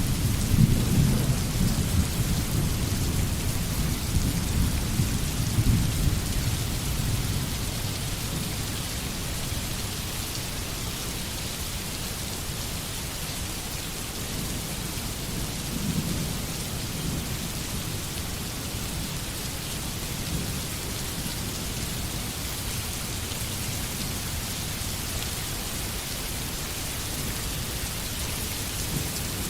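Steady rain hissing, with a low rolling rumble of thunder that is strongest over the first several seconds, fades, and swells briefly again about halfway through.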